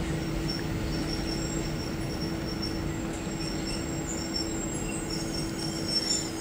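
Suburban train running slowly along the track, heard from inside its vestibule: a steady rumble and hum, with faint, intermittent high-pitched squeals.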